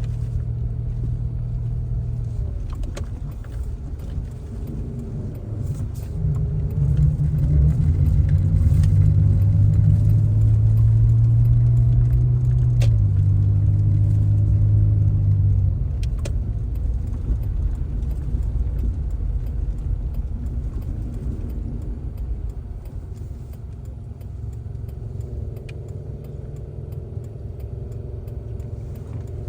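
Car engine and road noise while driving. The engine note climbs and gets louder from about six seconds in, holds, then falls back and quietens after about sixteen seconds. A few light rattles are heard.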